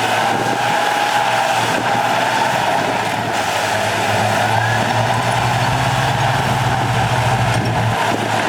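Heavy earthmoving machinery's diesel engine running steadily under work, with a strong low hum that grows stronger for a few seconds near the end and a faint whine rising slightly in pitch near the start.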